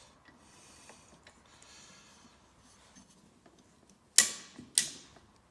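Click-type torque wrench clicking sharply twice, about half a second apart, near the end, as a nut on a VW air-cooled engine reaches its 24 ft-lb setting. Before that, faint rubbing and handling of tools and parts.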